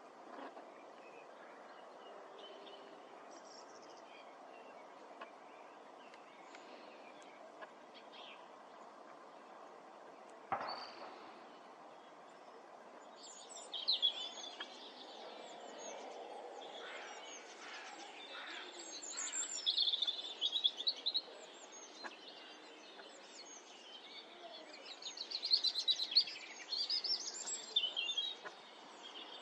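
Small birds chirping and trilling in rapid runs over a steady background hum of outdoor noise, the birdsong starting about halfway through and growing busier toward the end. A single dull knock comes shortly before the birds start.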